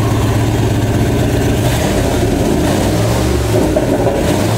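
Ford 302 small-block V8, fitted with a 12.7 L Detroit Diesel semi-truck turbocharger, running steadily at low speed, its low engine note shifting slightly about three and a half seconds in.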